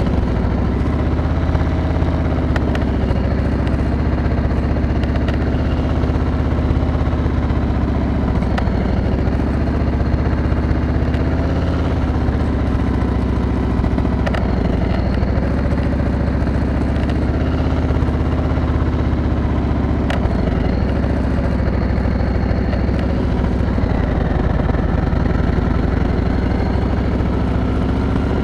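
Motorcycle engine running at low speed, its note rising and falling slightly as the throttle is eased on and off through a slow cone weave.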